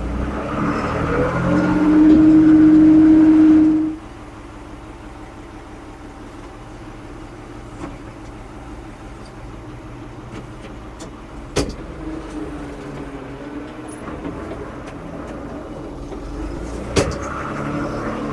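Diesel engine of a 1975 Ford 550 backhoe running under throttle, with a loud steady whine for about two seconds early on. It then drops back to a quieter steady run, with two sharp knocks, and picks up again near the end.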